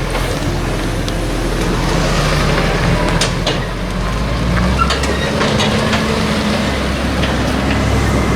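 Heavy tractor diesel engine running steadily, with a few short knocks and clicks about halfway through.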